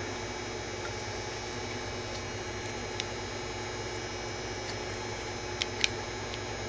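Steady low hum and hiss of room tone with a few faint, brief clicks of pliers on thin jewelry wire: one about three seconds in and two close together near the end.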